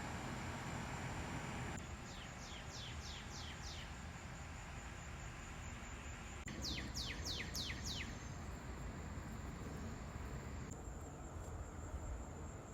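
A small bird singing: two quick runs of five or six downward-sliding notes, about four seconds apart, over faint background noise and a steady high-pitched tone.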